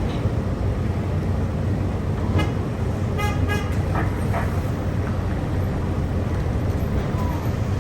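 Steady low outdoor rumble with two short, high-pitched toots or calls a little past three seconds in.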